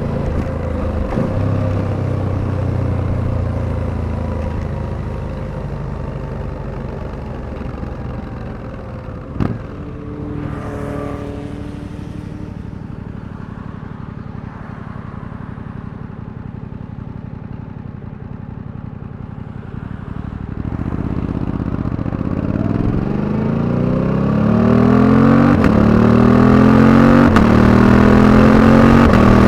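Suzuki V-Strom 800DE's parallel-twin engine while riding: it runs steadily and eases off, with a sharp click about nine seconds in. From about twenty seconds in it accelerates, revs rising through several gear changes and getting louder.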